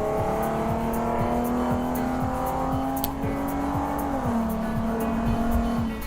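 BMW E46 325Ci's straight-piped inline-six pulling hard under acceleration, its note climbing steadily until the automatic gearbox shifts up about four seconds in and the pitch drops. Music with a steady beat plays alongside.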